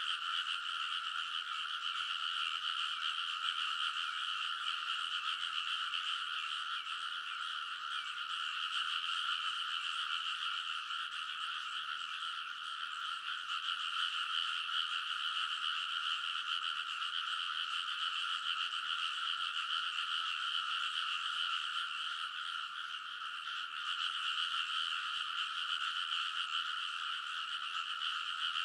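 A dense chorus of many frogs croaking together, a steady, unbroken din that eases slightly twice before swelling back.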